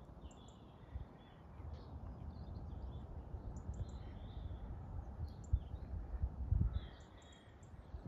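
Small songbirds chirping and singing in short, scattered phrases over a low rumble on the microphone that swells about six seconds in.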